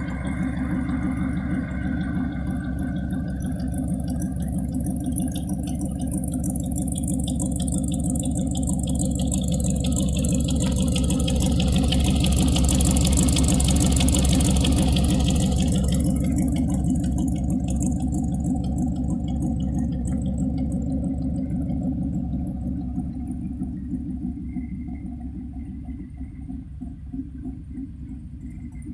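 A 1937 Ford truck's engine running steadily. It swells louder about halfway through, then eases off again.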